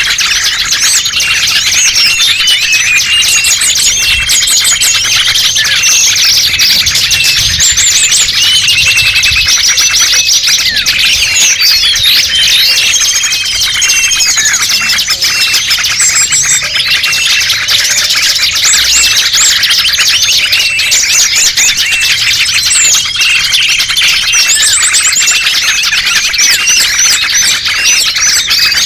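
Dense chorus of many small songbirds chirping, trilling and twittering over one another without pause, high-pitched. It is a bird-lure recording (pikat) used to draw small wild birds in.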